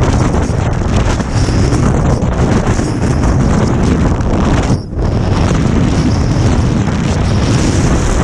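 Strong wind buffeting a GoPro's microphone, a loud low rumble with a brief lull about five seconds in.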